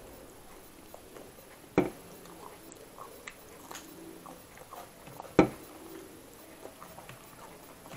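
A person eating close to the microphone: soft chewing and mouth noises, with two sharp, loud crunching bites, one about two seconds in and one about five and a half seconds in.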